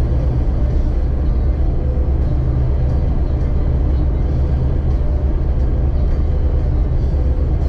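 1999 Jeep XJ's engine and drivetrain droning steadily while driving.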